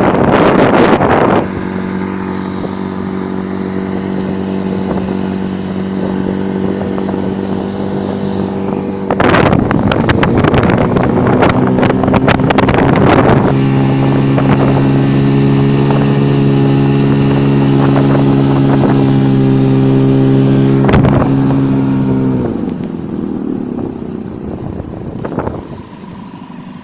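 Privet-22 two-stroke outboard motor running at a steady speed, with bursts of wind and water rush. About halfway through, the engine settles to a lower, stronger note. Near the end it dies away, as if throttled back.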